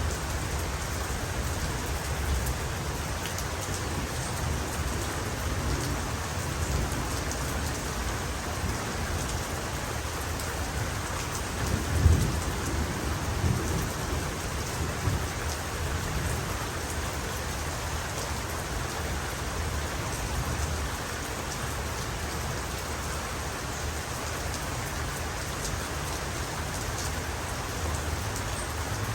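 Steady heavy rain falling, with a short low rumble of thunder about twelve seconds in that dies away over the next few seconds.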